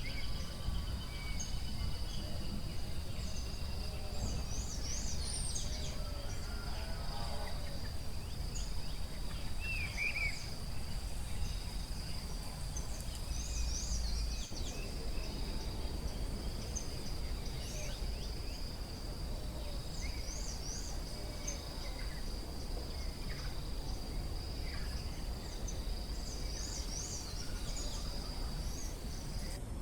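Forest ambience: a steady, high insect trill runs throughout, with many short bird chirps and calls over it and a low rumble underneath.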